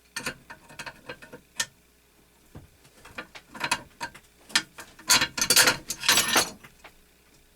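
Hand tools working on a 1x42 belt grinder's hardware: a run of small sharp clicks and rattles, then louder scraping, rattling bursts about five to six and a half seconds in.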